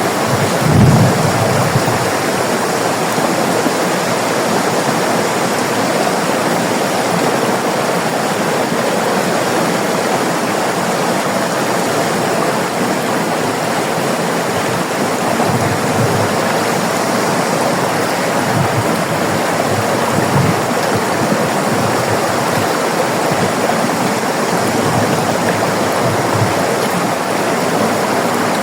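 River water flowing steadily over rocks, a continuous rushing with occasional low splashes and surges, one stronger about a second in.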